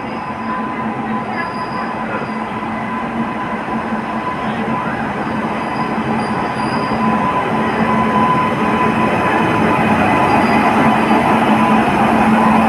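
WAG-9HC electric locomotive pulling a heavily loaded goods train past at close range, a steady electric hum over the running noise of wheels on rail, growing steadily louder as it approaches and draws alongside.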